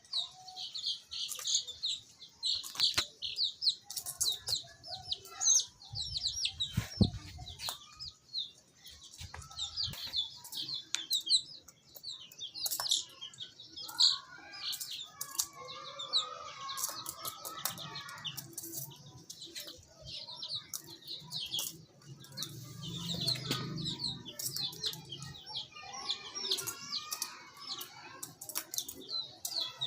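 A group of baby chicks peeping constantly in quick, high, falling chirps, with many sharp clicks and taps among them.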